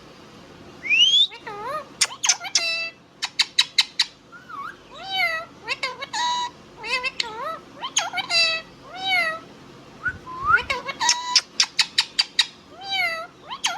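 Indian ringneck parrot calling: bursts of rapid sharp chirps mixed with rising-and-falling whistled, meow-like calls, with two short lulls.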